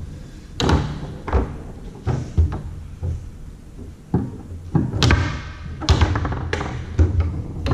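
Foosball rally on a Tornado table: the ball is struck by the rod-mounted players and bangs off the table walls, giving a string of sharp knocks and thuds at irregular intervals.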